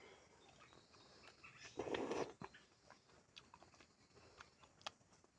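Faint mouth sounds of someone chewing jackfruit, with small wet clicks and one short, louder noisy burst about two seconds in.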